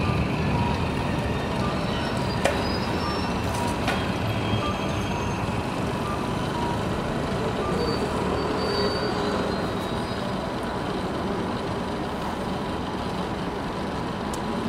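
A train running on the elevated railway tracks: a steady low rumble that slowly fades.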